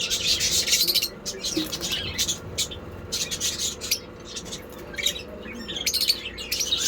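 Lovebirds chirping in rapid, shrill calls, thickest in the first two and a half seconds, thinning out in the middle and picking up again near the end.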